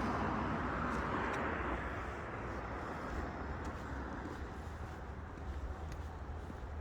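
Outdoor road traffic noise: a passing vehicle's tyre hiss fading over the first two seconds, over a steady low rumble.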